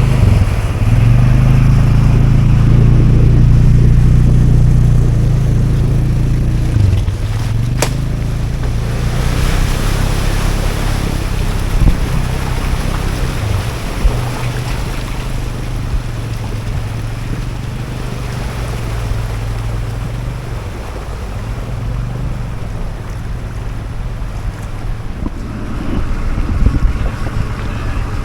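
Four-wheel-drive vehicle's engine running under load as it crawls over rough off-road ground, louder for the first several seconds and then lower and steadier, with a few sharp knocks and wind on the microphone.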